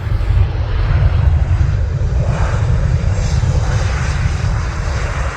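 Loud, steady rumble of a Boeing 737-800's twin CFM56 turbofan jet engines as the airliner passes low overhead on its landing approach.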